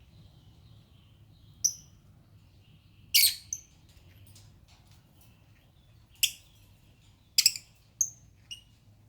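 Pet lovebirds giving short, sharp, high-pitched chirps, about seven in all, with faint soft chattering between them.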